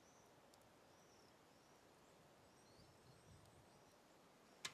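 Near silence: faint outdoor garden ambience with small birds giving a few brief high chirps, and a single sharp click near the end.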